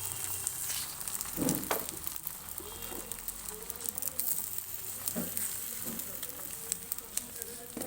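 Oil sizzling and crackling on a hot griddle as an egg roll fries, with a few knocks about a second and a half and five seconds in.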